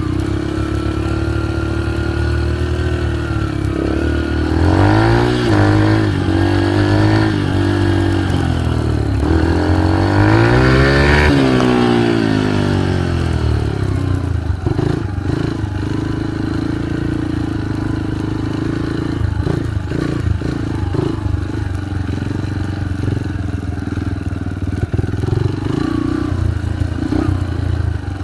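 A motor vehicle engine running, revved up and down several times with rising and falling pitch, then settling to a steadier run with scattered knocks and rattles.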